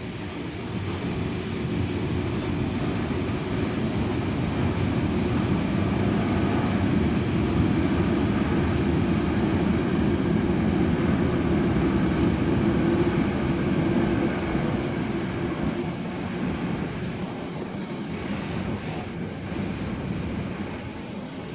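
Freight train rolling past, its wagons running over the rails with a steady noise. It grows louder over the first several seconds and fades away over the last few.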